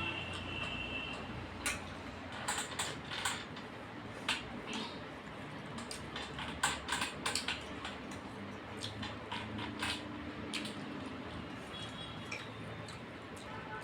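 Eating sounds: scattered, irregular sharp clicks and small smacks of a rice-and-fish-curry meal being eaten by hand from a plate, over a steady low background hiss.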